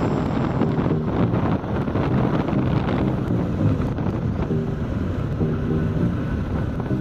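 Wind rushing over the microphone of a moving motorcycle, with engine and road noise underneath.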